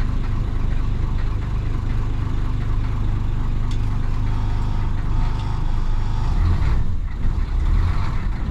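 1966 Isuzu BXD30 bonnet bus's DA640 diesel engine running with a steady, deep drone, briefly dipping about seven seconds in.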